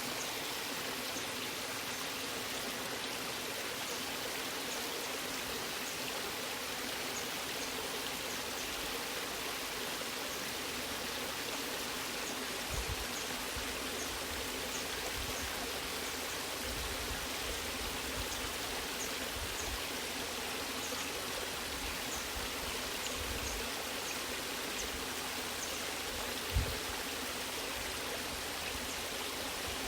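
Waterfall rushing steadily, with a few brief low thumps in the second half, the clearest one near the end.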